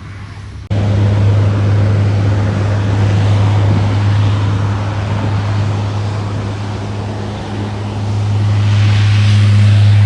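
Aircraft engines running loud: a steady low drone under a broad rushing noise. It starts abruptly about a second in and swells toward the end as the plane draws near.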